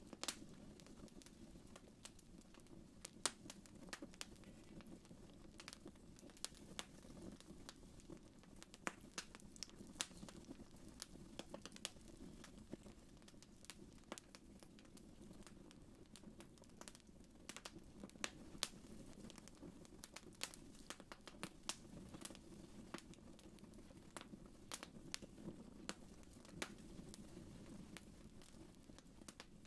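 Wood fire crackling in a fireplace: frequent irregular sharp pops and snaps over a soft, steady low rumble of the flames.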